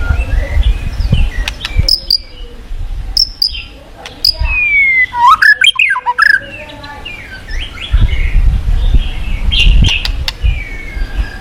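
White-rumped shama (murai batu) singing a fast, varied run of chirps, sharp clicks and sliding whistles, including a long falling whistle about five seconds in. A low rumble sits underneath, strongest at the start and again about eight to ten seconds in.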